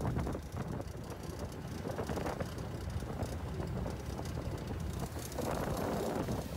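Wind buffeting the microphone over the steady low rumble of a fishing boat, with stronger gusts about two seconds in and again near the end.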